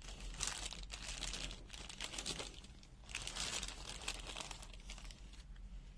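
Packaging crinkling as it is handled while a digital multimeter is unpacked, in three bursts.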